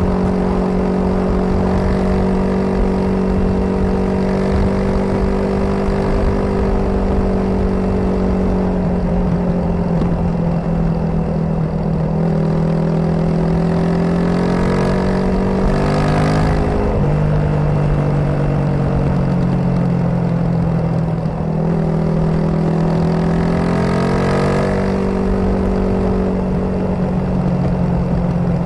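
Suzuki DR250S single-cylinder engine with a Dominator R aftermarket exhaust, heard while riding along at a steady cruise. Twice, around the middle and near the end, it revs up, then drops back in pitch.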